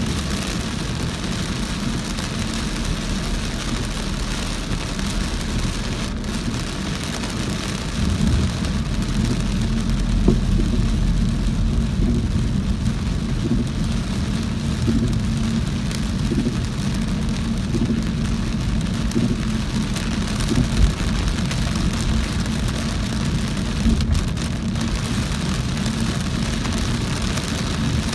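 Heavy rain drumming steadily on a moving car, over the low rumble of the engine and tyres on the wet road. There are a few brief louder bumps.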